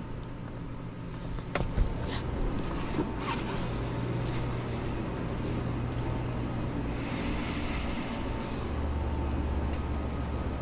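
2014 GMC Sierra's engine idling steadily with no misfire showing, with a few sharp clicks and knocks about two seconds in. A deeper hum joins in about nine seconds in.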